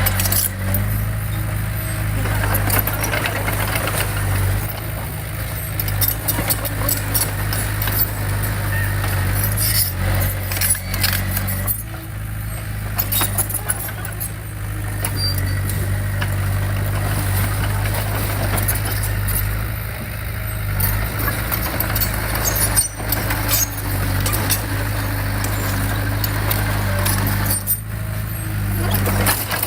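Diesel engine of heavy construction equipment running steadily, with scattered metallic clanks and knocks over the engine hum.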